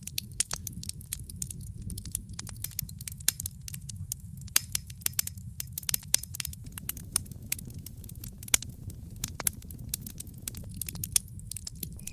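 Wood campfire crackling, with irregular sharp pops and snaps several times a second over a low steady rumble.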